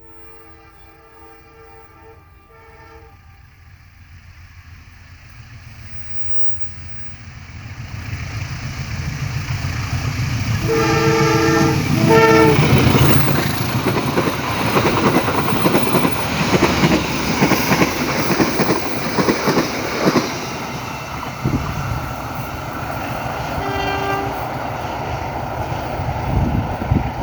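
A train approaching and passing: its two-note horn sounds at the start, the rumble of the train grows steadily louder, and the horn blows twice more about eleven and twelve seconds in as it comes closest. Wheels clack rapidly over the rail joints as it runs by, with one short horn toot near the end.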